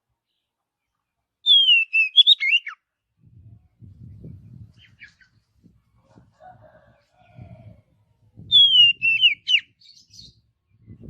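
Oriental magpie-robin (kacer) singing: two short, loud, clear whistled phrases about seven seconds apart, each opening with a falling whistle and ending in a few quick notes. Faint low rumbling comes between the phrases.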